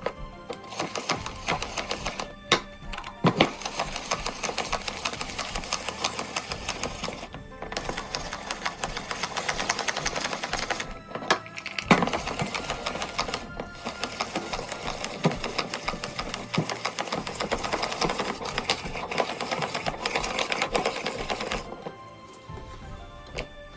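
Electric blender or food processor running in runs and short pulses, its blade rattling through chunks of chopped vegetables to make a masala paste, with brief stops between runs and a final stop near the end.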